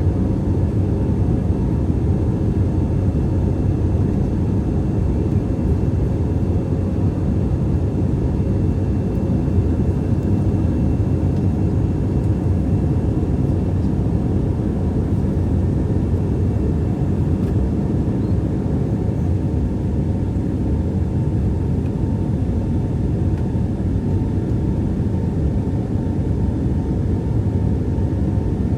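Airbus A321 jet engine and airflow noise heard from inside the cabin shortly after takeoff: a steady, even drone, strongest in the low range, with faint steady tones above it.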